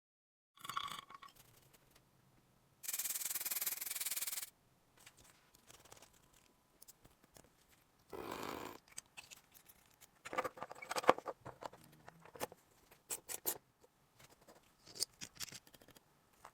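Hand work on a small metal toy locomotive: scraping and rubbing, a hissing noise lasting about a second and a half, and a run of small sharp clicks and taps in the second half.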